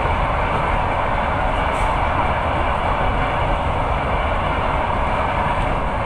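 Moving passenger train's steady rolling rumble, heard from inside the carriage.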